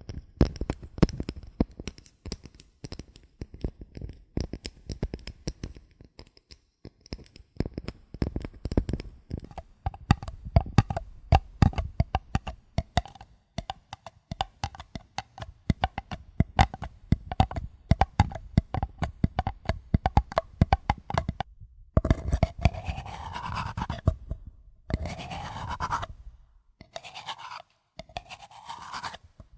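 Close-miked ASMR trigger sounds: dense, rapid scratching and tapping clicks, followed near the end by several longer rubbing strokes that sweep up and down in pitch, like a squeaky rub.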